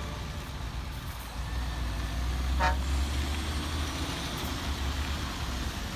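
Heavy truck running with a steady low rumble that grows louder about a second and a half in, and a short horn toot about two and a half seconds in.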